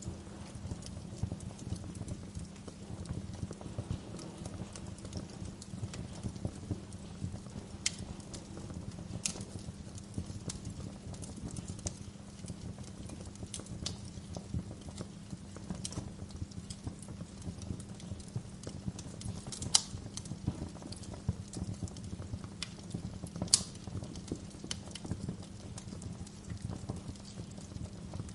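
Wood fire crackling steadily, with sharp pops and snaps now and then; the two loudest snaps come in the second half.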